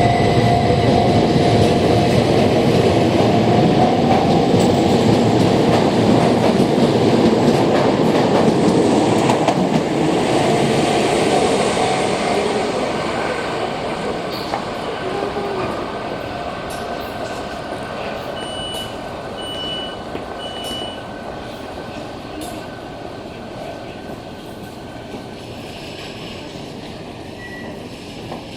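A Keishin Line train running past, its noise loud for about the first twelve seconds and then fading away steadily as it recedes. About two-thirds of the way in, three short high beeps sound.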